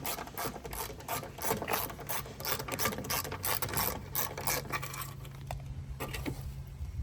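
Socket ratchet wrench clicking in quick, even strokes, about four clicks a second, stopping about five seconds in. A steady low hum is left underneath.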